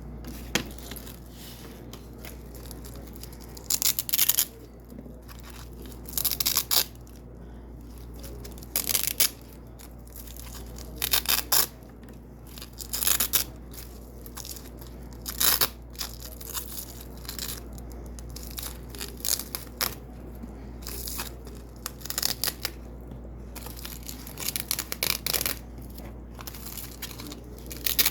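Double-sided Velcro strips being ripped off white hook strips: a series of short, crackly rips, roughly one every two seconds, with quieter handling noise between them.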